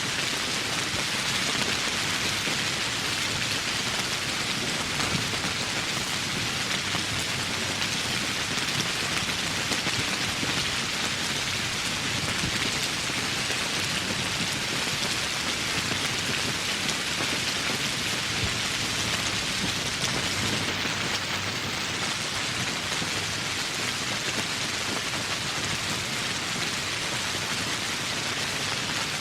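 Steady, heavy rain: a dense, even hiss of raindrops that holds unchanged throughout.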